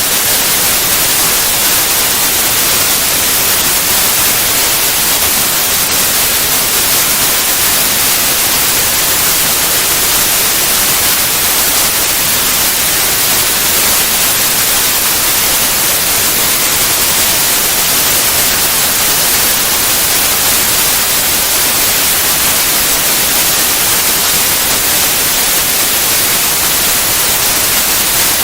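Synthetic white noise: a steady, unchanging hiss with its energy spread evenly up through the high frequencies.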